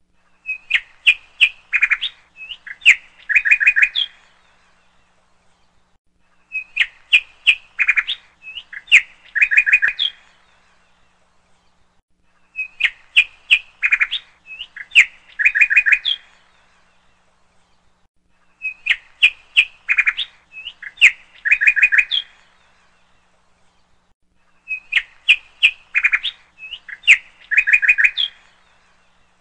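Bird song: the same phrase of sharp chirps and short trills, about three and a half seconds long, repeating about every six seconds with short pauses between.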